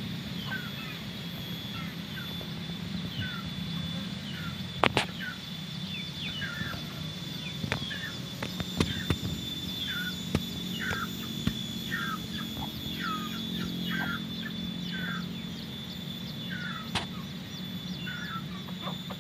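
A small bird chirping over and over in short falling notes, about one or two a second. Underneath run a steady high-pitched tone and a low hum, with a few sharp clicks.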